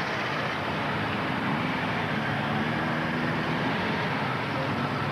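Motorcycle engines running in a steady din, with one engine's note standing out faintly in the middle.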